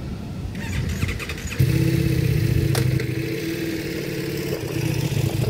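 Tail of a freight train rolling away, its wheels rumbling with a run of sharp clicks. About a second and a half in, a louder steady engine drone starts suddenly and keeps running.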